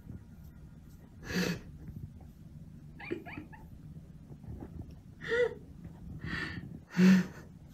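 A cat making short harsh breathy sounds, about five in all, with a brief thin cry about three seconds in; the last sound is the loudest. They come as it sniffs at an opened durian, a reaction to the fruit's smell.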